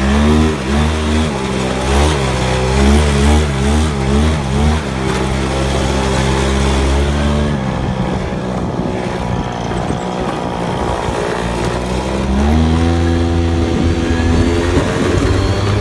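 Minibike's small engine running with the throttle blipped up and down several times, then held steady. About seven seconds in the engine note turns rough and loses its pitch, and about twelve seconds in it rises again and holds at a higher speed.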